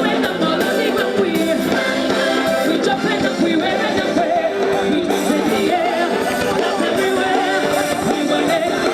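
Live band music with singing, played at a steady level; the bass is thin.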